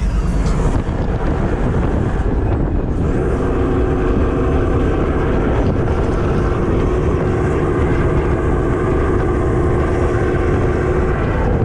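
An engine running steadily at an even speed: a constant hum over low rushing noise.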